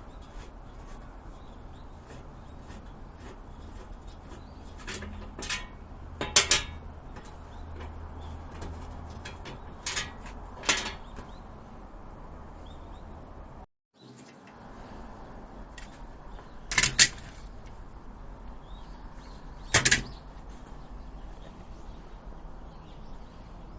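Sharp clicks and knocks of hard parts being handled, in small groups of one to three, over a steady background hiss. They fit the detachable legs of a campfire table being fitted or taken off.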